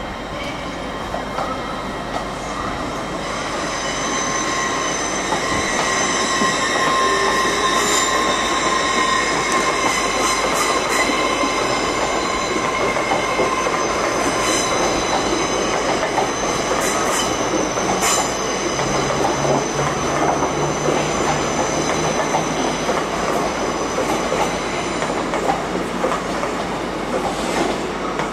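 Train running along the track, growing louder over the first few seconds, with steady high-pitched wheel squeal and the clack of wheels over rail joints.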